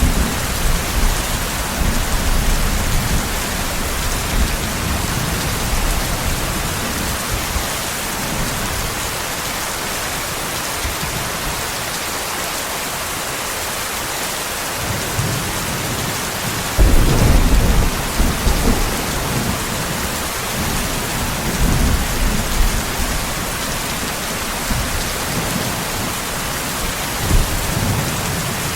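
Steady heavy rain falling on a surface, with low thunder rumbling at intervals. The strongest roll breaks suddenly about two-thirds of the way through.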